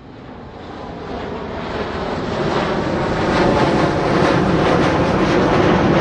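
Jet aircraft noise of a plane taking off and climbing out, as heard from the ground: a wide rushing noise that grows steadily louder over the first few seconds, then holds at its peak.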